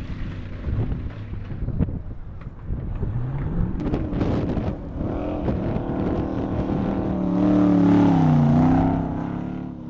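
Hot-rodded 1932 Ford coupé's engine at full throttle on ice, revs climbing as it accelerates. It gets louder as it nears and is loudest about eight seconds in, when it passes close.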